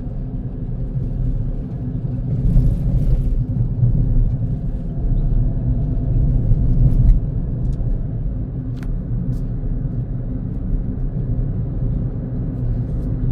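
A car driving at steady speed: low, even engine and road rumble, with a brief hiss about three seconds in and a few faint ticks.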